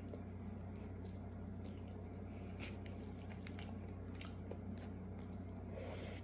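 A person chewing a mouthful of tuyo and egg close to the microphone: scattered wet mouth clicks and small crunches. Under it runs a steady low hum.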